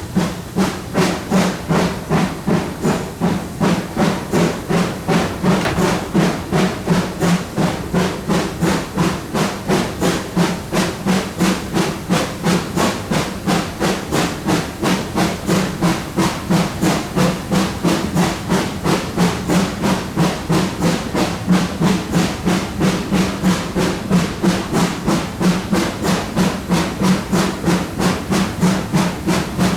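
Exhaust beats of GWR Manor class 4-6-0 No. 7820 Dinmore Manor, a two-cylinder steam locomotive, working hard under load. The chuffs are loud and even, about two a second, with a steady rhythm.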